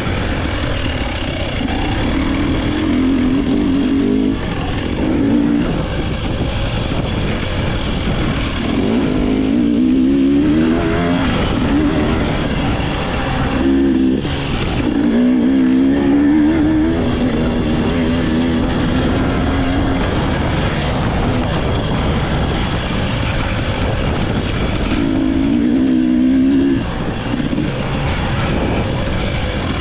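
Dirt bike engine revving up and down again and again as it is ridden, over a constant rushing noise.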